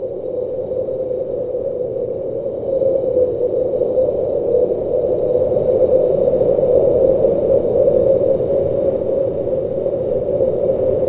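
Blizzard wind blowing steadily, a dense rushing noise that grows a little louder about three seconds in.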